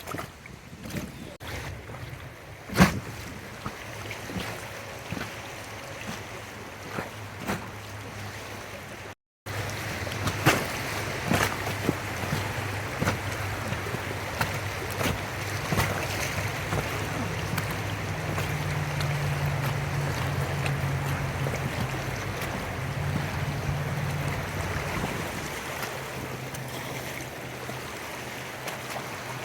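Inflatable raft on a river: water splashing and lapping with scattered sharp knocks, as from paddles on the raft, and a low steady hum and rush of wind on the microphone. The sound cuts out for a moment about nine seconds in and comes back louder.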